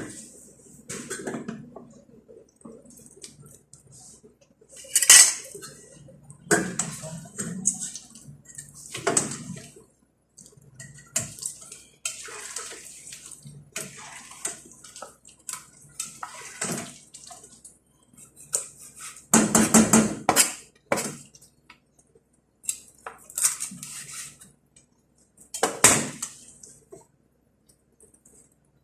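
Pots, dishes and metal utensils clinking and clattering in scattered bursts, with a longer, louder run of clatter about two-thirds of the way through.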